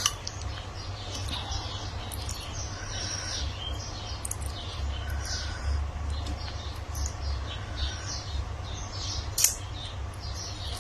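Small birds chirping again and again over a low steady hum, with one sharp click a little after nine seconds.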